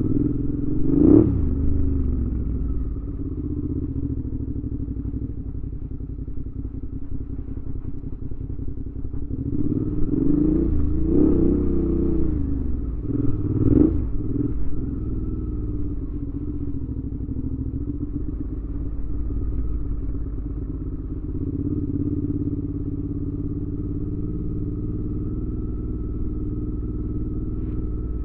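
2019 Suzuki V-Strom 650's V-twin engine running through a Delkevic aftermarket exhaust on the move. The revs rise and fall briefly about a second in, and several times between about ten and fourteen seconds in, then it runs steadily.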